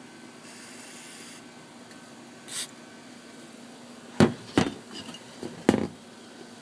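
Aerosol carburetor cleaner sprayed into the carb jets: a hissing spray of about a second near the start, then a short spurt. After that come a few sharp knocks, the loudest sounds here.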